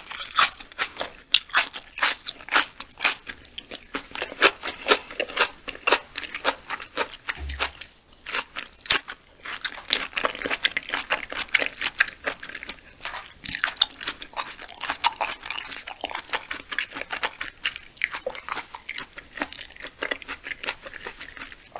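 Close-miked chewing of raw yellowtail sashimi with fresh sprouts: a quick run of crisp, wet crunches and mouth clicks, thickest in the first half, easing off briefly partway through and then going on.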